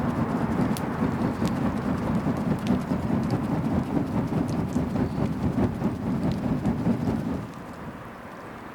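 Wood bonfire burning with dense crackling and scattered sharp pops. It becomes suddenly quieter about seven seconds in.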